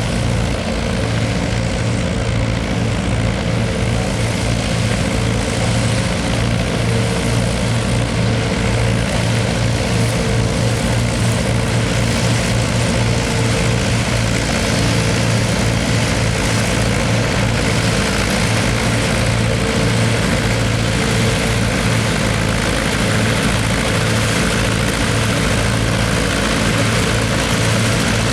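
Heavy diesel tractor engine running steadily at a constant speed, with a deep, even hum and no change in pitch.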